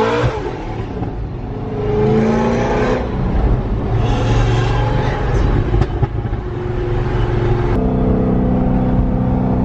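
Car engine running, with a rev rising in pitch at the start and again about two seconds in, then holding steady.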